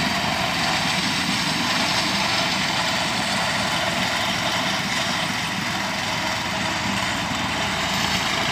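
Grass-mowing machine running steadily while cutting hay: a constant engine hum under a broad whirring hiss from the cutter.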